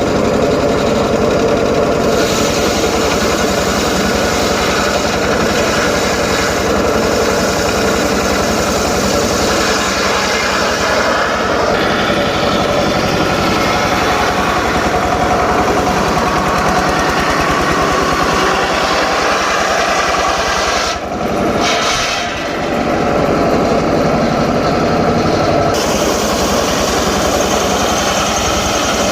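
Home-built circular saw running and ripping teak timber, a loud, continuous machine sound that dips briefly twice about two-thirds of the way through.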